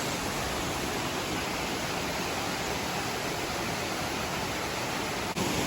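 Waterfall rushing steadily, a constant wash of falling water with a brief break near the end.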